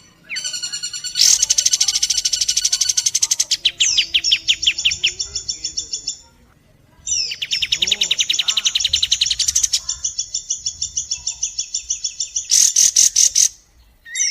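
Recorded bird calls from a kapas tembak and woodpecker (pelatuk) training mix: long runs of fast, high, rapidly repeated notes, with a short pause about halfway through and another near the end.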